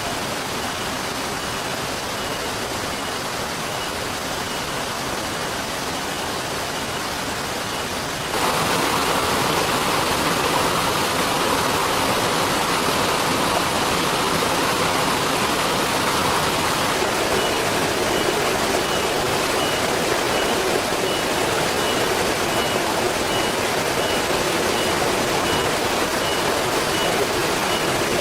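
River water rushing, a steady noise that jumps louder about eight seconds in.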